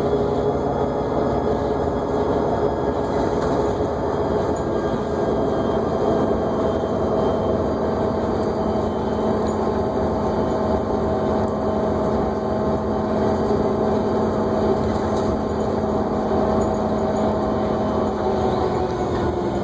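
New Flyer D40LFR diesel bus heard from inside while driving: steady engine and road noise with a whine held at an even pitch, which begins to fall right at the end.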